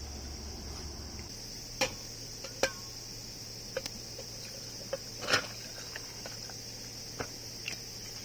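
Steady high-pitched insect chirring, with about seven sharp clicks and knocks scattered through it, the loudest about two and a half and five seconds in.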